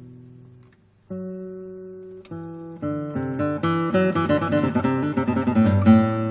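Acoustic guitar music. A chord fades out and there is a short pause about a second in. Single chords follow, then quick strummed and plucked notes build up, loudest near the end.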